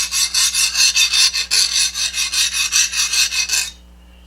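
A hand file rasped back and forth over a freshly quenched leaf-spring steel knife blade, a quick run of strokes at about three or four a second that stops short near the end. This is the file test for hardness: a file that skates over the steel rather than biting shows the blade has hardened.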